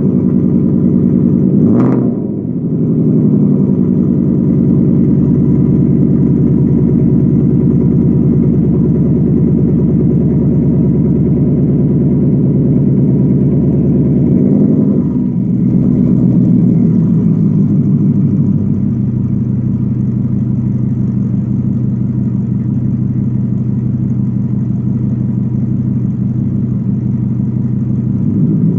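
Car engine idling through a Borla ATAK muffler exhaust with an X-pipe and resonators on the tips, on a cold start. A short rev blip comes about two seconds in; around the middle the engine note shifts and then settles into a lower, steady idle.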